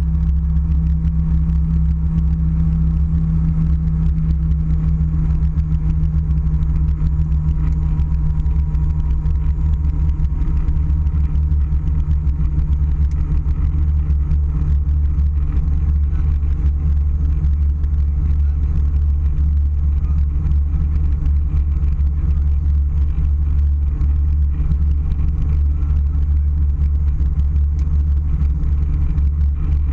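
Steady low rumble of an airliner's cabin noise from the engines and airflow, unchanging throughout.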